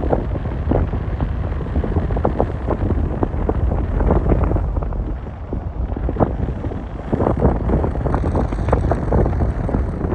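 Strong wind buffeting the camera's microphone: a loud low rumble with constant gusty thumps and crackles.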